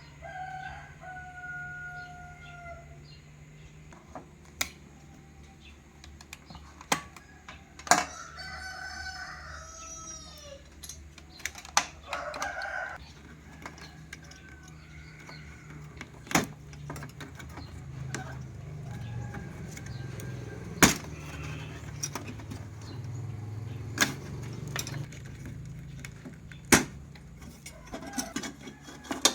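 Long calls from a bird, one held for about two seconds near the start and an arching one about eight seconds in, over scattered sharp clicks and taps.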